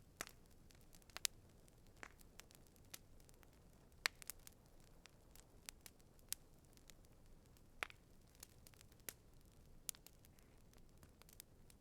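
Campfire crackling: irregular sharp pops and snaps of burning wood over a faint hiss, with a few louder pops, the strongest about four seconds in.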